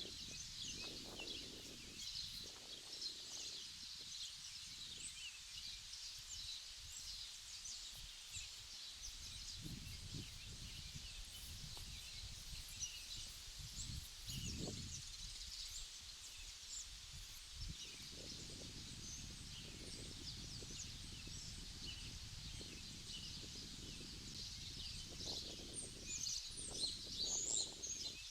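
Many small birds chirping, with short high calls overlapping one another and a few louder ones near the end, over irregular low rumbling.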